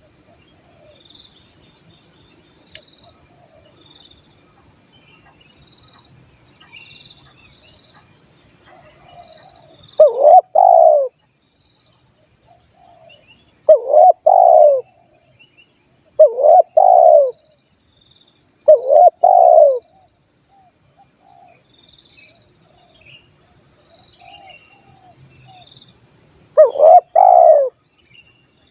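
Spotted dove cooing: five loud coo phrases, each of two quick notes. Four come about every three seconds from ten seconds in, and one more comes near the end. A steady high insect buzz runs underneath.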